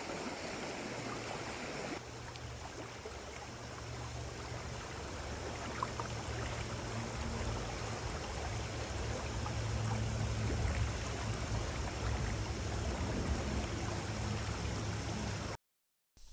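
Stream water running, a steady rushing noise that cuts off suddenly near the end.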